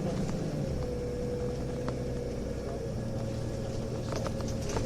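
Interior sound of a Nissan Diesel UA (KL-UA272KAM) city bus under way: its diesel engine and ZF Ecomat four-speed automatic running, the engine note changing about half a second in and again around three seconds in, with a few rattling clicks near the end. The owner hears this bus's sound as abnormal for a UA272, with upshifts held to high revs that may come from torque-converter slip.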